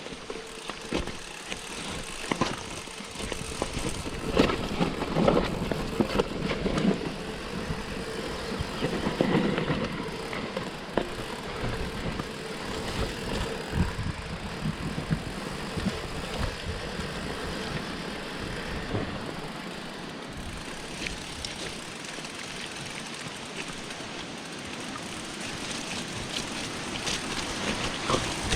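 Mountain bike rolling down a rough trail, its tyres running over dirt and stones, with frequent clicks and knocks as the bike rattles over the bumps.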